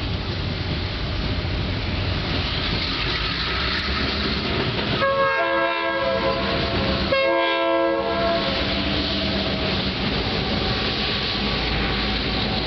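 SAM Shortline excursion train passing: its diesel locomotive and passenger cars rumbling steadily on the rails. About halfway through, the locomotive's air horn sounds twice, each blast about a second long with several tones at once.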